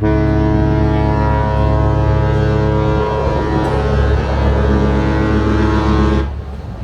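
Cruise ship's horn sounding one long, deep blast of about six seconds that starts and stops abruptly.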